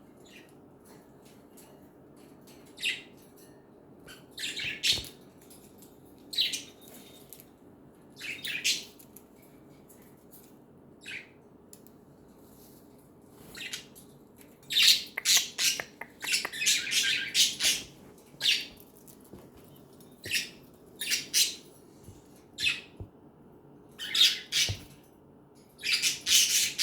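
Pet budgerigars chirping in short, high calls, a few scattered at first, then coming thick and fast through the second half.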